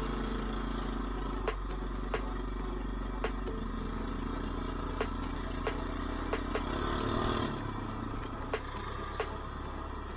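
Small single-cylinder mini bike engine running steadily under way, its revs rising briefly about seven seconds in and then dropping back, with a scattering of sharp knocks and clatter.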